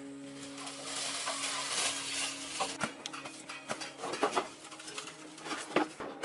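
Small metal parts and tools clinking and scraping, with a scrubbing hiss in the first half and a run of sharp knocks and clicks through the second half.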